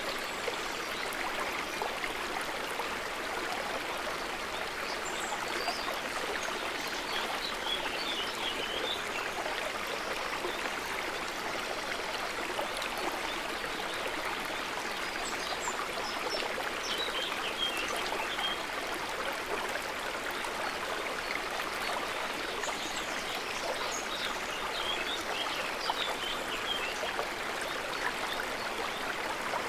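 River water running steadily in an even, unbroken rush. Faint high chirps come through in three short spells.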